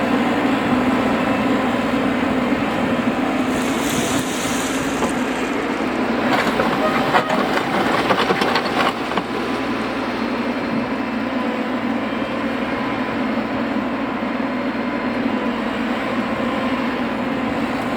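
Heavy track-work machinery running with a steady engine drone. There is a brief hiss about four seconds in and a cluster of knocks and clicks between about six and nine seconds in.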